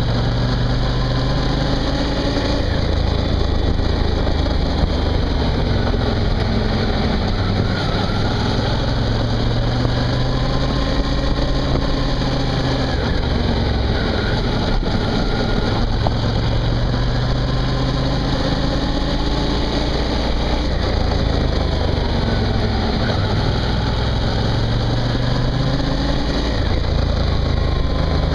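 Suzuki V-Strom motorcycle engine running under way, its pitch rising and falling again and again as the rider works the throttle through the bends, over steady wind and road noise.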